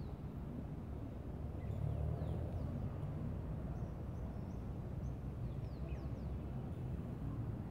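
Faint, short bird chirps that fall in pitch, scattered over a steady low rumble.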